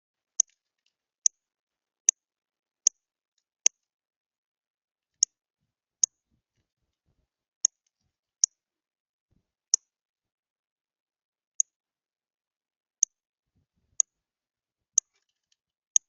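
About fifteen short, sharp, high chip notes from a small bird, repeated at uneven intervals of roughly a second, with silence between.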